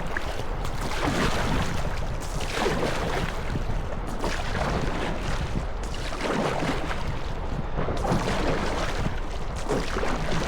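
Rushing whitewater around a kayak running a rapid, with paddle strokes splashing every few seconds.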